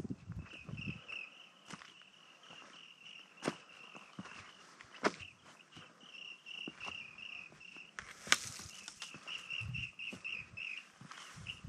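Birds chirping in a rapid, steady string of short high notes, with occasional footsteps crunching on a rocky track.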